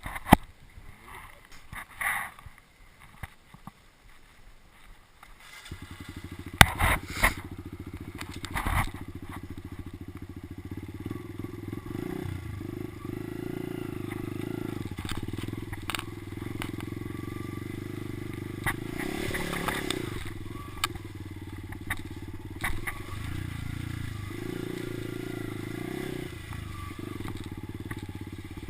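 A few knocks and clunks, then about six seconds in a Kawasaki motocross bike's engine starts and keeps running steadily, swelling briefly a couple of times, with sharp knocks just after it starts.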